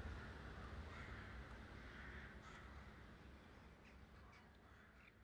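Faint bird calls fading out: repeated calls about once a second, with a few short chirps in the second half.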